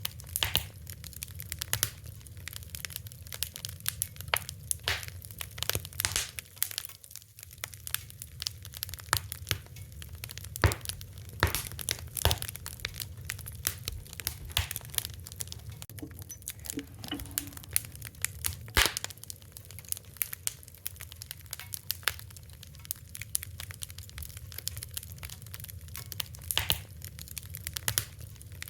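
Wood fire crackling: irregular sharp pops and snaps over a steady low rumble of burning, with a few louder cracks scattered through.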